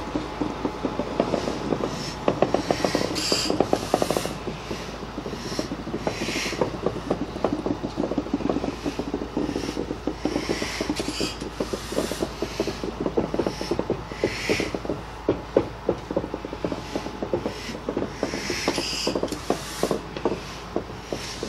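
2-6-6-2 steam locomotive and its cars rolling slowly while towed cold by a diesel: steel running gear and wheels clanking and clicking on the rails, with short high metal-on-metal squeals every few seconds.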